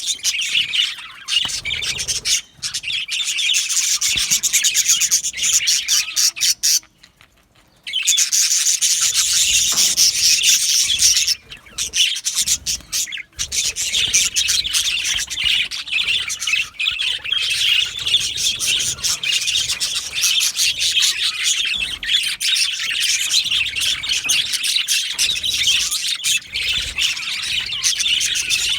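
Budgerigars chirping and chattering in a dense, fast, high-pitched stream, with a short break about seven seconds in.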